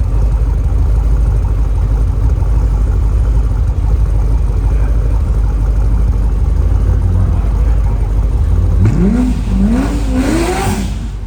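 Loud, steady low engine rumble; about nine seconds in, a car accelerates hard, its engine pitch climbing, dropping back and climbing again through several gear shifts.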